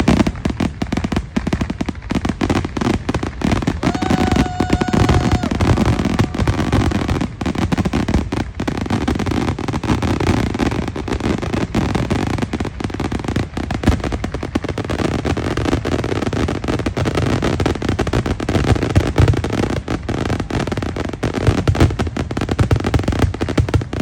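A fireworks finale: a dense, unbroken barrage of bangs from shells bursting in rapid succession. A short whistle sounds about four seconds in.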